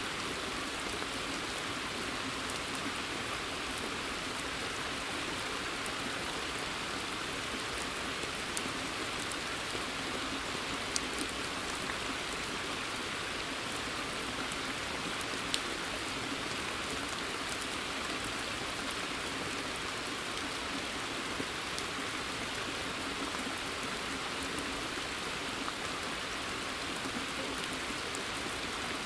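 Steady rain falling in a forest, an even hiss with a few single drops ticking close by.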